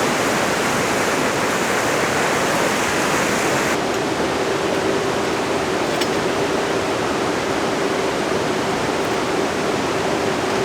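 Steady heavy rain falling, a dense even hiss. About four seconds in, the sound turns duller and a faint steady hum comes in under the rain.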